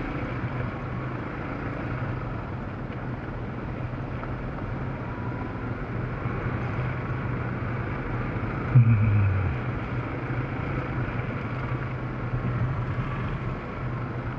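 Yamaha Serow's single-cylinder four-stroke engine running steadily while the motorcycle rides over a dirt road, with one brief loud thump a little past halfway.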